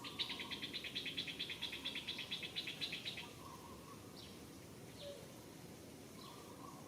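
Wild birds calling: a rapid, even trill of about ten notes a second lasting some three seconds, then a few short falling chirps.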